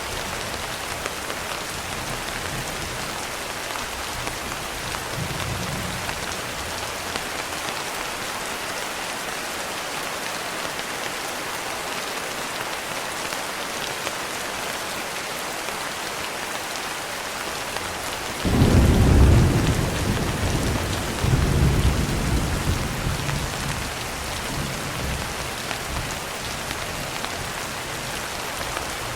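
Steady rain falling on a window, an even hiss throughout. About two-thirds of the way through, a roll of thunder breaks in suddenly, swells again a couple of seconds later and rumbles away.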